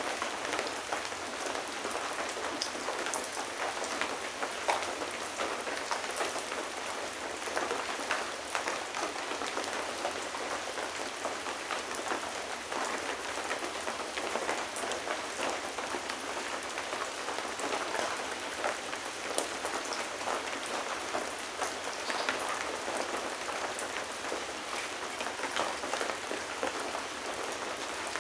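Steady rain falling and pattering on a surface, with many individual drops ticking through a continuous hiss.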